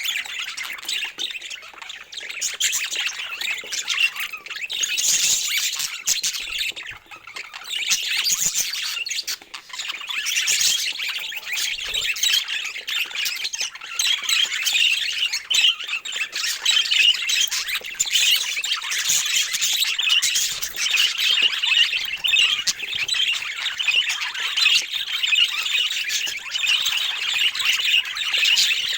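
Budgerigars chattering and warbling without pause, a dense mix of squawks and chirps.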